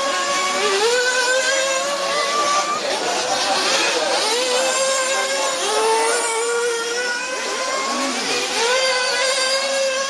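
Several nitro-engine off-road RC buggies racing, their small high-pitched engines revving up and easing off, overlapping one another as they accelerate out of corners.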